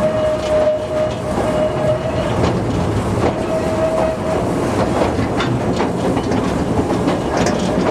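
Light railway train hauled by a Simplex diesel locomotive, running along the line as heard from an open-sided passenger carriage: a steady rumble of engine and wheels with a thin steady whine that fades out about four seconds in. Irregular clicks of the wheels over the track come through in the second half.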